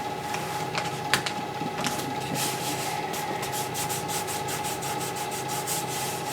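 Vinyl paint stencil being rubbed down by hand onto an aircraft wing through application tape: a few scattered scrapes, then quick, even rubbing strokes from about two seconds in.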